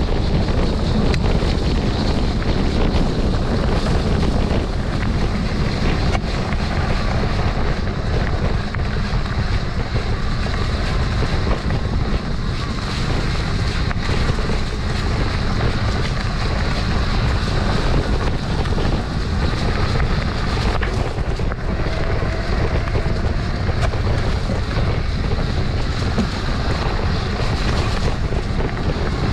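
Wind buffeting the microphone: a steady, loud rushing noise with a heavy low rumble.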